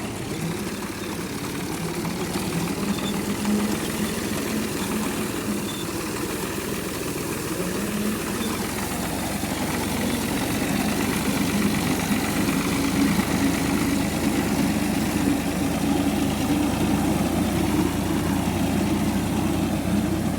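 Tractor diesel engine running steadily. It grows somewhat louder from about eight seconds in.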